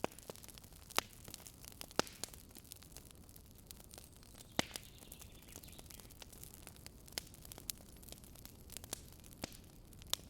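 Campfire crackling, with scattered sharp pops and snaps of burning wood over a low steady rush of flame; the loudest pop comes about halfway through.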